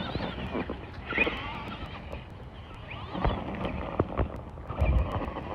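Axial RC monster truck's electric motor whining up and down in pitch in short bursts as the throttle is worked, with a few dull thumps from the truck hitting the ground about three and five seconds in.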